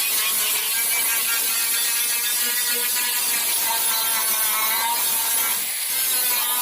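A power tool running steadily, a loud hiss with a wavering whine through it.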